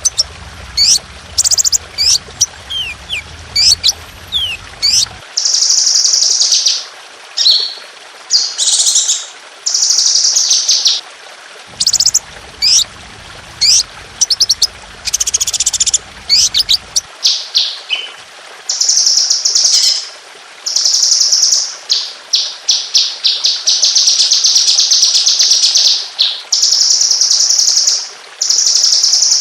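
Songbird masteran recording: high, sharp falling chirps give way to long, dense runs of rapid repeated notes and trills, the fast 'tembakan' (shot-like) song.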